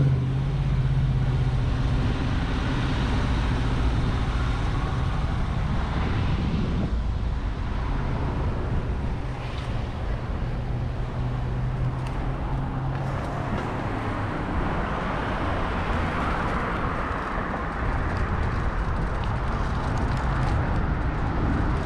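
Steady wind rushing over the microphone of a moving bicycle rider, with road traffic alongside and a low engine hum through the first half.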